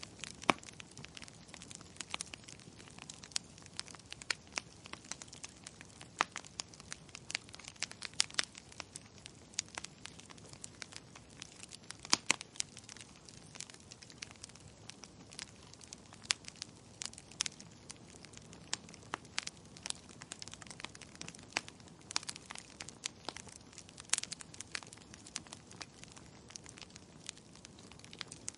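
Burning wood crackling: irregular sharp pops and snaps, several a second and a few louder ones, over a soft steady hiss of the flames.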